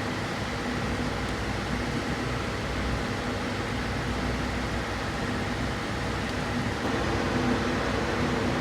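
Steady mechanical hum with a few faint steady tones running under it, even in level throughout, with no distinct knocks or clicks standing out.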